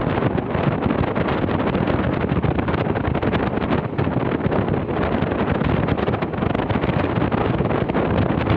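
Steady rush of wind buffeting the microphone over the running of a moving vehicle.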